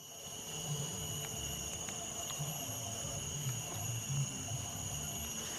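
Steady insect chorus: a continuous high-pitched, unwavering buzz-trill.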